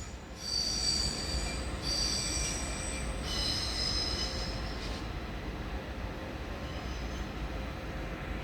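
Train wheels squealing as a train pulls out, high-pitched screeches in several stretches over the first five seconds, then fading to a faint squeal over a low rumble.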